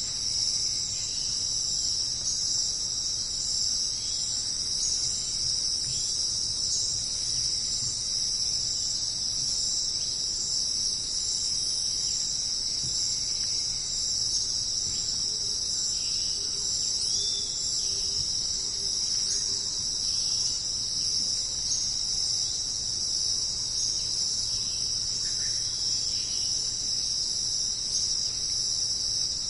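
Steady, high-pitched chorus of night insects such as crickets, shrilling without a break. A few faint chirps sit beneath it, and a soft repeated low call comes in briefly around the middle.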